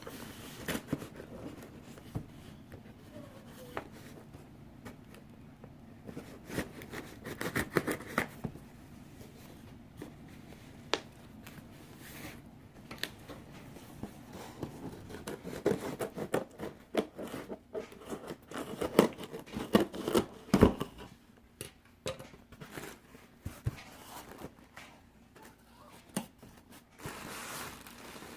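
Hands opening a package: scraping, cutting and tearing of the packaging, with rustling and many sharp clicks and knocks, busiest in the second half.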